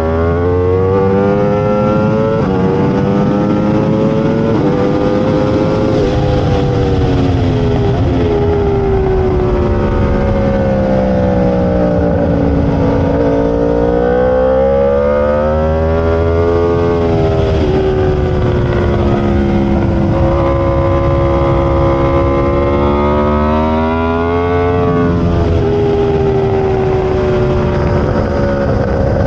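Aprilia RSV4's V4 engine at racing speed, revving hard as it accelerates. The pitch climbs through the gears, drops sharply at each upshift and sweeps down under braking, several times over.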